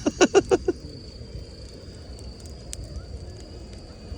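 A short burst of laughter, then a campfire burning with a steady low rumble and a few faint crackles, while a thin high trill of crickets carries on throughout.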